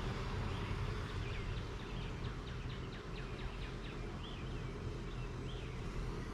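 Steady low hum of a mass of honeybees at a crowded hive. Over it a bird sings a quick run of short descending chirps, then a few separate rising-and-falling notes.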